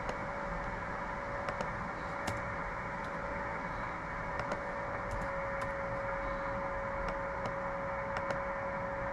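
HF transceiver receiving on 20 m with no one transmitting: steady band hiss with a continuous heterodyne whistle from a carrier near the tuned frequency, the pitch stepping slightly about halfway through. A few sharp clicks are scattered through it.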